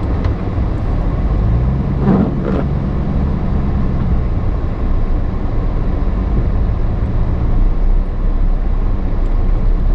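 Chevy Silverado pickup engine running, heard from inside the cab as a steady low rumble. The engine note rises about a second and a half in and settles again about four seconds in.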